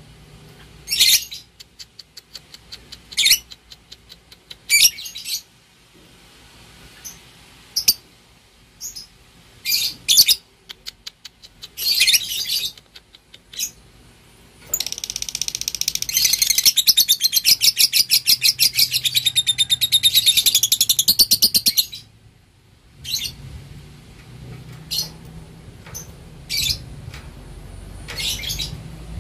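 Lovebird calling: short sharp high chirps and quick runs of rapid ticking, then a long rapid chattering trill (the lovebird's 'ngekek') lasting about seven seconds in the middle, followed by more single chirps.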